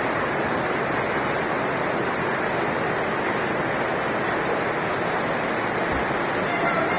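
Heavy rain pouring down, a steady, unbroken rushing hiss.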